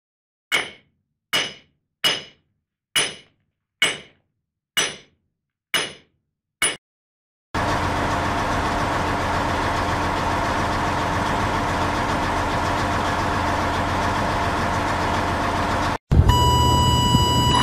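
Eight sharp metallic strikes, a little under one a second, each ringing briefly: hammer blows on a semi-trailer's wheel. A pickup truck's engine then runs steadily, and near the end a steady high tone sets in.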